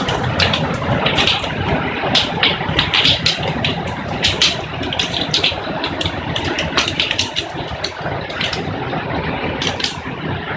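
Hail pelting down hard: a steady loud roar with a dense, irregular clatter of individual hailstone strikes, thinning slightly near the end.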